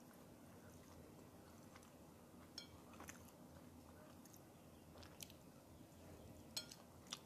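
Faint chewing of goat satay, with about five short, sharp clicks scattered through; the loudest come near the end.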